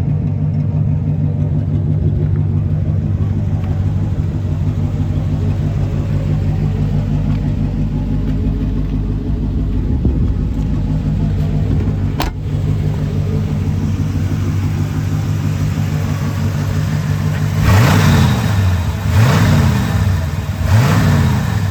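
1981 Chevrolet C/K 20 pickup's engine idling steadily, then revved three times in quick succession near the end. There is a single sharp click about halfway through.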